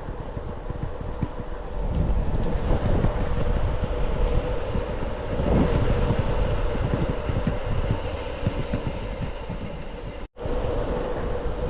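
Wind rumbling on the microphone and tyre noise from an e-bike being ridden along a lane, with a faint steady hum over it. The sound drops out for an instant about ten seconds in.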